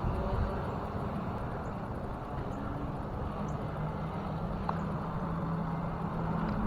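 An engine running steadily at low pitch, with a low, gusty rumble of wind on the microphone.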